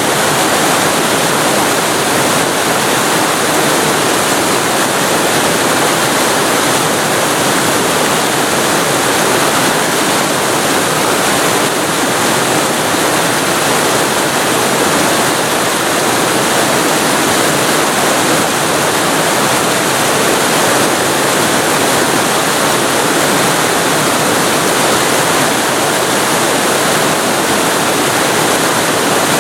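Waterfall recorded very close up: a loud, steady, even rush of falling water with no breaks or changes.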